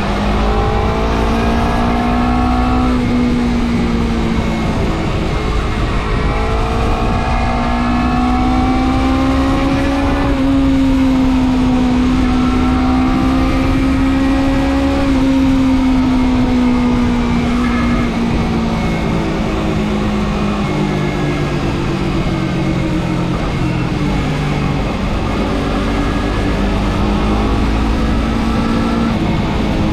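Motorcycle engine running at road speed, heard from a helmet or bike-mounted action camera in a foam wind cover. The engine note climbs and drops back twice as it shifts up, holds, then slowly falls as it eases off. Wind rush stays underneath as a low steady rumble, damped but not removed by the foam cover.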